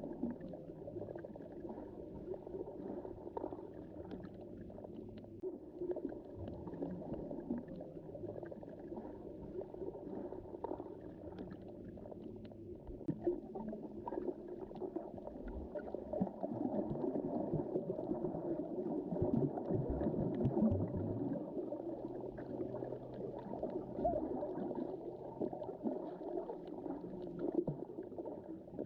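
Underwater ambience of the Mediterranean Sea heard below the surface: a continuous, muffled, low wash of moving water with faint scattered clicks and a steady low hum underneath. It swells louder for a few seconds past the middle.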